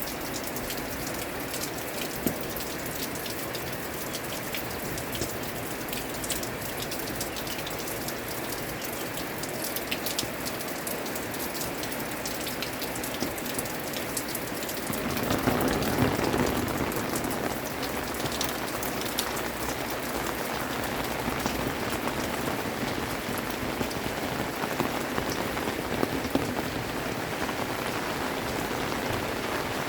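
Steady rain falling, with many individual drops ticking sharply on hard surfaces. About halfway through it swells into a louder rush for a couple of seconds, then settles back.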